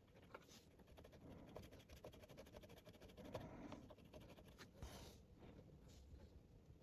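Near silence with faint scratching and light tapping: small handling noises of work on a keyboard's circuit board.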